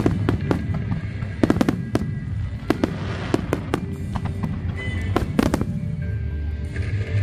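Aerial fireworks going off in a display: a rapid, irregular string of sharp bangs and cracks, about a dozen in seven seconds, with music playing underneath.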